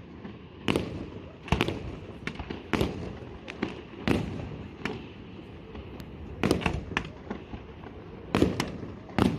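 Fireworks display with aerial shells bursting in quick succession. There are sharp bangs about once or twice a second, some in close pairs, over a continuous low rumble.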